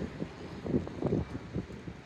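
Wind buffeting the microphone in uneven gusts, a low rumbling noise that swells and drops several times.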